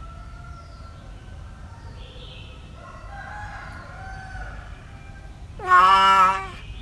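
Faint cat meows, then one loud drawn-out animal call about a second long near the end, rising at its start and then held.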